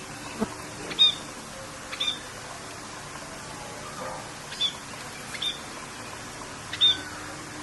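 Short, high bird chirps, about five or six of them a second or more apart, over a steady hiss of rain.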